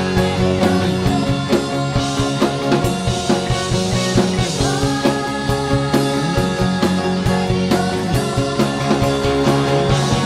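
Rock music with drum kit and guitar playing a steady beat under held chords.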